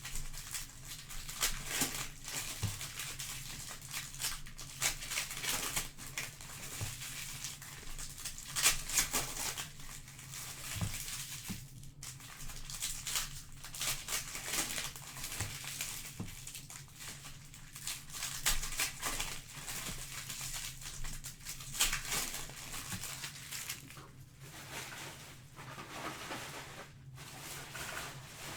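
Plastic and foil wrapping crinkling and tearing as a box of trading-card packs is unwrapped and the packs torn open, in a continual irregular crackle.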